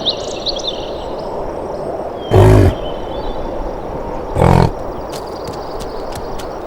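A big cat gives two short, deep roars about two seconds apart, over a steady background hiss.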